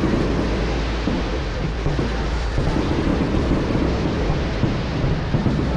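Fireworks show: a continuous barrage of rumbling and crackling bursts running together, with wind noise on the microphone.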